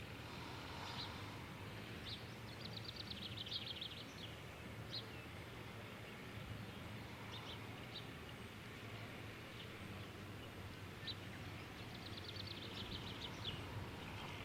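Birds chirping faintly: scattered single chirps and two quick trills, one a few seconds in and one near the end, over a faint steady low hum.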